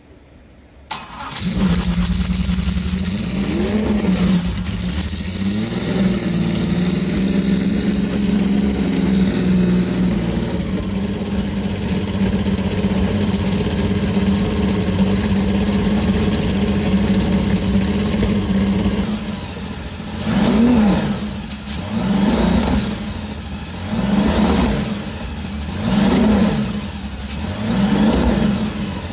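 Engine of a Porsche-engined VW Golf starting from cold: a click, then it catches about a second in and settles to a steady high idle with a few blips. Near the end the throttle is blipped repeatedly, about one rev every second and a half.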